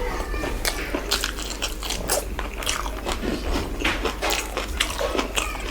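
A person eating a chicken masala and rice meal: chewing and biting with many sharp, irregular wet mouth clicks and crunches, several a second.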